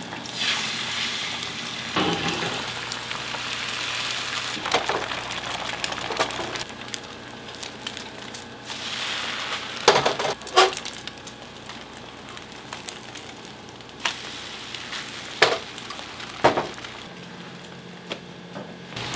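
Food sizzling as it fries in a hot pan, a steady crackling hiss that eases off after the first half, with several sharp knocks of a utensil or pan.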